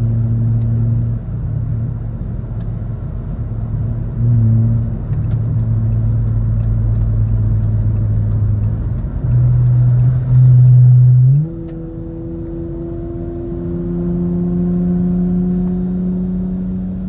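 Car engine heard from inside the cabin while driving, holding steady revs with a couple of louder surges under throttle. About two-thirds of the way through the note changes, then climbs slowly as the car accelerates.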